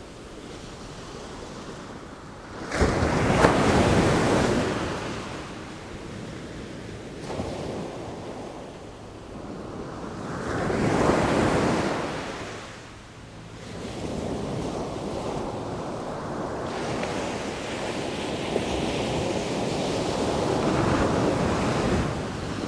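Sea waves surging and breaking in slow swells, three loud surges roughly eight seconds apart, over a steady wash of wind.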